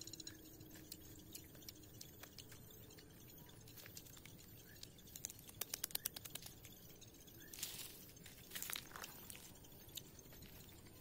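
Faint scattered clicks and taps, with a quick run of sharper clicks about five to six and a half seconds in and two short rustling bursts a little later.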